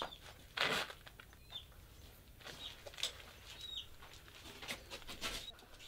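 A few faint, short, high bird chirps scattered through the quiet, with a brief rustling noise about half a second in.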